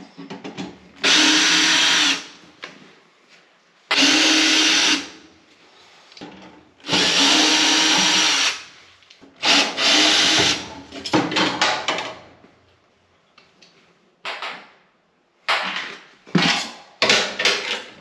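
Cordless drill-driver running in three runs of a second or more each, then several shorter runs mixed with clicks and clatter.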